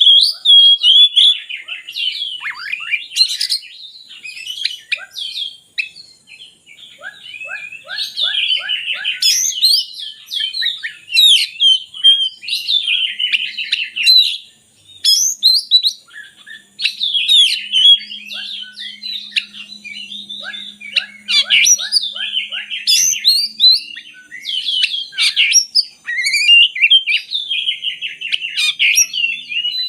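Oriental magpie-robin (kacer) singing a loud, varied song of whistled and chattering phrases, with brief pauses between bursts.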